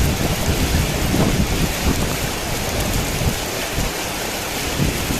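Heavy rain falling steadily, with a low rumble of thunder swelling and fading beneath it, strongest in the first couple of seconds and again near the end.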